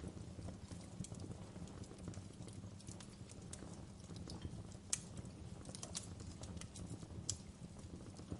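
Wood fire burning in a fireplace: a steady low rumble of flames with irregular sharp crackles and pops from the burning logs, a louder pop about five seconds in and another near the end.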